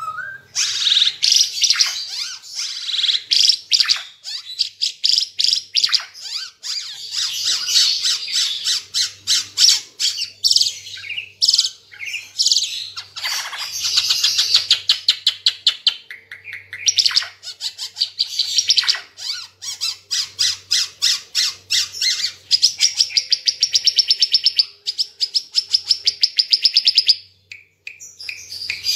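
Timor figbird (burung ara Timor) singing loudly and continuously: quick runs of high chirping notes, with a long, fast, even trill late on that stops abruptly.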